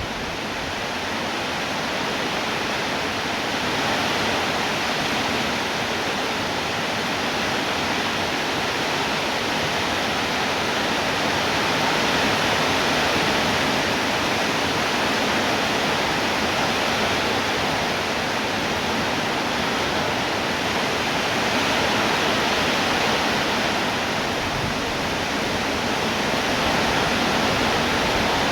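Steady rainfall, a dense even hiss of drops that swells slightly in loudness now and then.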